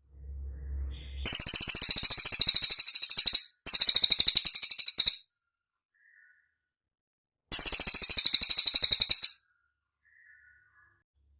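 Cililin bird song: three bursts of very high, rapid trilling, each about two seconds long, the first two back to back and the third after a short pause. A low rumble comes just before the first trill.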